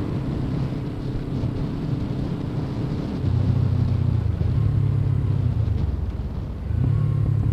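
Suzuki GS500's air-cooled parallel-twin engine running while riding, through an aftermarket Delkevic exhaust. The engine gets louder about three seconds in, drops briefly near the end, then picks up again.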